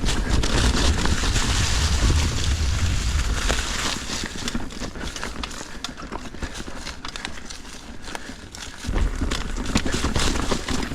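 Mountain bike rolling down a rocky trail: tyres crunching over rocks and the bike rattling with many sharp clicks, under a low wind rumble on the camera microphone that eases off in the middle and comes back near the end.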